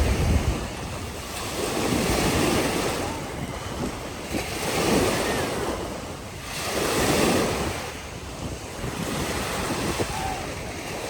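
Wind-driven lake waves breaking on a sandy beach, swelling and falling every two to three seconds, with wind buffeting the microphone.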